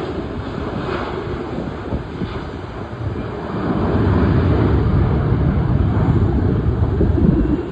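Jet engine rumble from an Airbus A340-300 airliner's four CFM56 engines, growing louder about three and a half seconds in, with wind buffeting the microphone.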